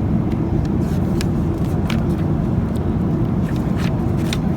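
Steady low rumble of a Boeing 737-800 cabin in flight: engine and airflow noise, with a few faint clicks.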